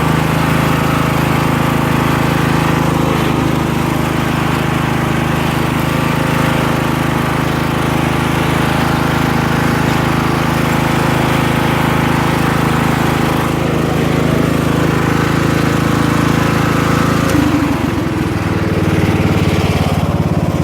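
Craftsman LT1000 lawn tractor engine running steadily under load while the mower blades chop leaves into the bagger. About 17 seconds in, the engine note drops and settles lower.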